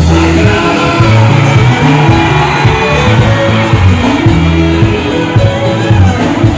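Live band music with a singer, loud and steady, with a strong bass line under the vocals.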